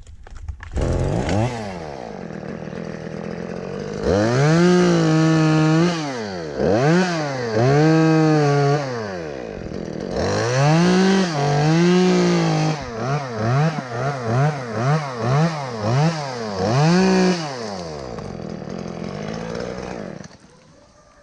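Two-stroke chainsaw revving up and cutting wood in several long pulls, falling back toward idle between them, then a quick run of short revs before it stops near the end.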